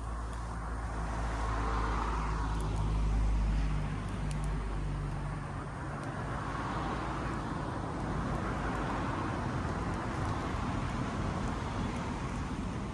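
Road traffic passing: a vehicle's engine rumble that swells about two seconds in and fades by five seconds, then a second vehicle swelling and passing around seven seconds, with a few faint clicks.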